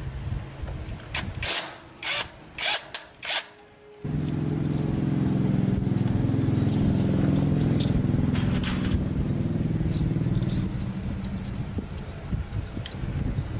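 Small motorcycle engine running steadily, starting abruptly about four seconds in after a few short hissing bursts.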